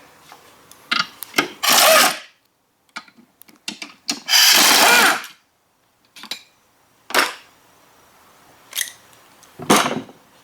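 A power tool runs in two short bursts, each under a second, amid scattered sharp metallic knocks and clanks of tools and parts being handled.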